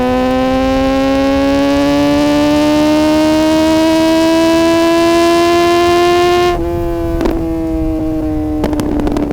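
Suzuki GSX-R600 inline-four engine pulling hard in one gear, its pitch climbing steadily for about six and a half seconds. Then the throttle closes and the revs ease off, with a few sharp cracks near the end.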